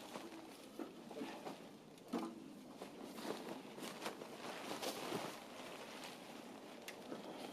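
Irregular knocks, clicks and rustling as camping gear is handled and someone moves about on the ground.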